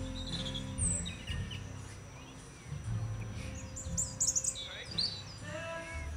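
Short, high bird chirps and cheeps, several in quick succession about four seconds in, over the bass of festival music.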